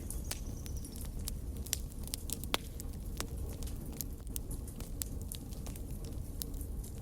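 Fireplace fire crackling: irregular sharp snaps and pops, a few louder than the rest, over a low steady rumble of the flames.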